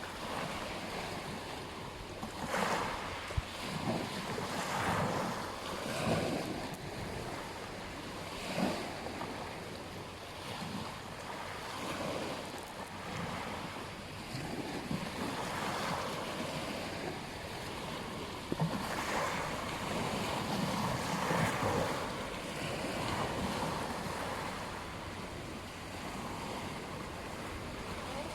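Waves washing onto a beach, swelling and fading every few seconds, with wind buffeting the microphone.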